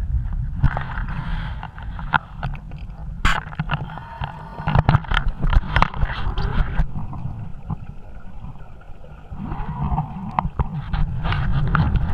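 Underwater breathing of a scuba diver through a regulator: exhaled bubbles come in rushing bursts separated by quieter pauses, over a steady low rumble, with many sharp clicks and knocks.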